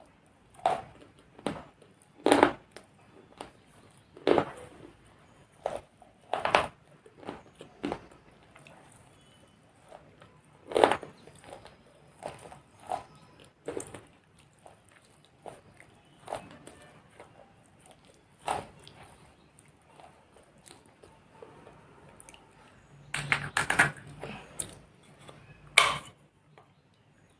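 Person biting and chewing pieces of dry baked clay pot: sharp, crisp crunches every second or two, with a quick run of crunches near the end.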